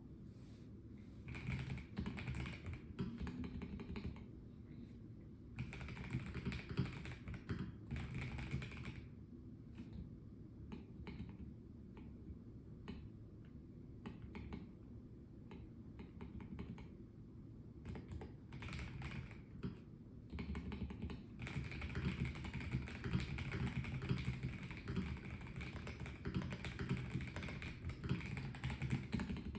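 Typing on a Melgeek Mojo84 plastic-cased mechanical keyboard, key clicks in bursts. There is a fast run of typing near the start, a sparse patch of occasional keystrokes in the middle, and steady continuous typing from about two-thirds of the way in.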